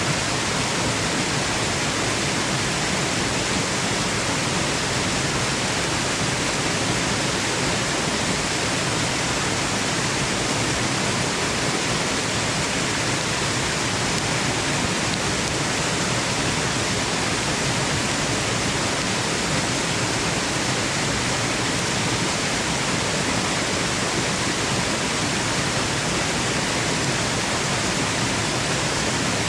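Waterfall: steady rushing water, an even, unbroken hiss with no changes.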